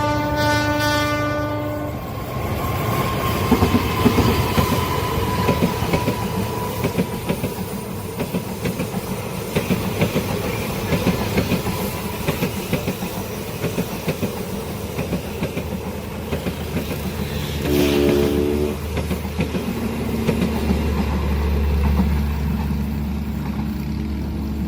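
Train passing a level crossing. The locomotive horn sounds at the start, then the wheels clatter over the rail joints as the cars go by. A second short horn blast comes about eighteen seconds in, and a deep low rumble builds near the end.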